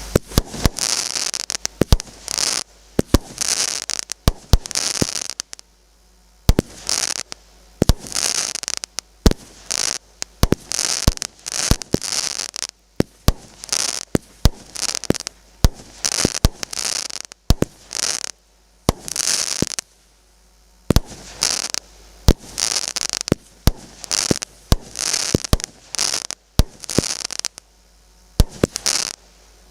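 "Muza" 36-shot firework battery of 0.6-inch calibre firing its shots one after another, about one a second: each a sharp bang followed by a short high hiss.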